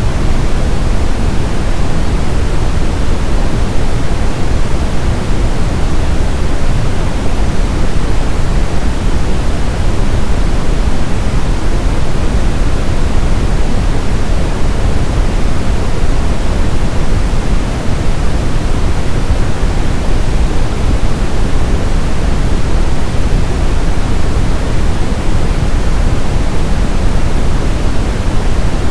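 Steady synthetic brown noise: a loud, even, deep rushing hiss with most of its weight in the bass.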